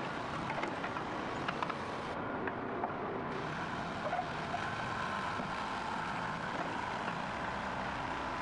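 Heavy machinery running steadily, with a few short clicks and knocks over it and a faint whine coming in partway through.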